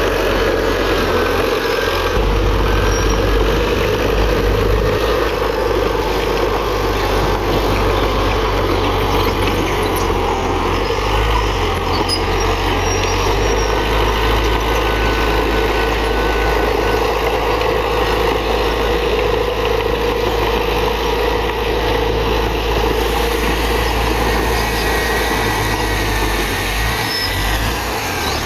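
Heavy diesel earthmoving machinery running steadily, a continuous low engine rumble, easing slightly near the end.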